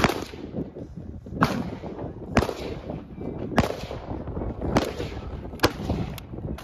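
Gunfire at a shooting range: about seven sharp shots at uneven intervals roughly a second apart, each with a short ringing tail.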